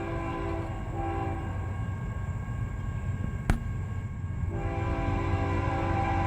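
Leading CSX GE diesel locomotive sounding its multi-chime air horn in the grade-crossing pattern: a blast ends just after the start, a short blast follows about a second in, and a long blast begins near the end. A low diesel rumble runs underneath, with one sharp click a little past halfway.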